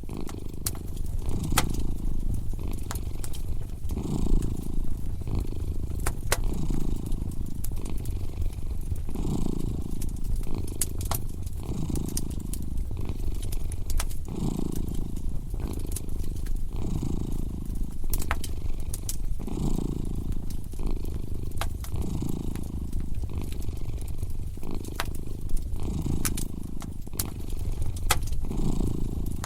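Cat purring steadily, swelling and fading about every two and a half seconds, over the scattered pops and snaps of a crackling wood fire.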